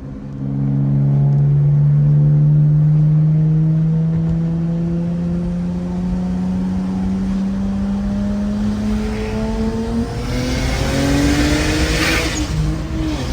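Single-turbo BMW N54 inline-six pulling hard at wide-open throttle, its revs climbing steadily through a long gear after a brief dip at the start. A hiss builds over the last few seconds, and the revs drop sharply just before the end, as at a gear change.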